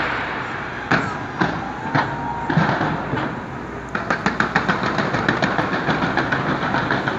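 Fireworks bursting: a few separate bangs, then from about four seconds in a rapid run of crackles, about five a second.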